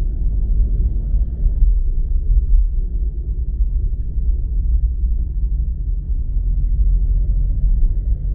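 Steady low rumble of a car in motion: road and engine noise heard from inside the cabin.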